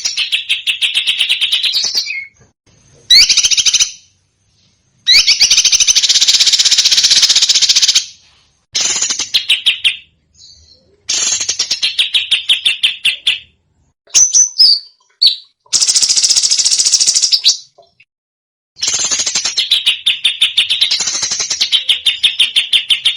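Recorded songbird song of the kind used as masteran tutor audio: rapid, shot-like trills of quickly repeated high notes ("tembakan") in phrases of one to three seconds, broken by abrupt short silences.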